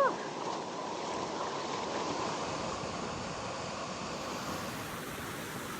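Steady rushing of moving water, with a short rising-and-falling note right at the start.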